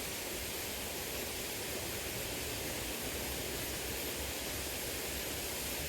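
Small river flowing: a steady, even rush of water with no other events.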